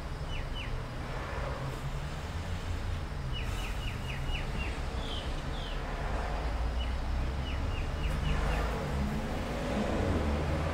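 Steady low background rumble, with several bursts of short, quick falling chirps, typical of birds calling outside.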